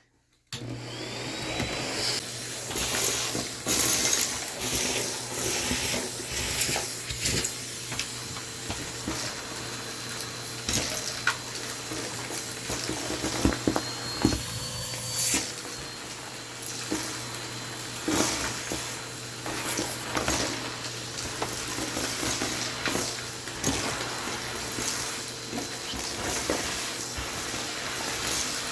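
Vacuum cleaner running, starting abruptly about half a second in, with frequent clicks and rattles of crumbs and debris being sucked up.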